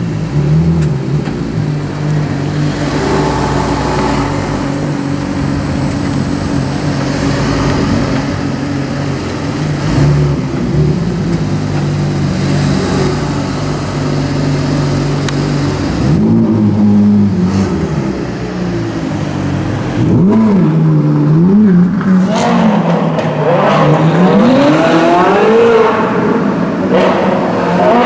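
Supercar engines idling loudly and steadily. A single rev comes about halfway through, then a run of revs near the end, the last climbing long and high in pitch.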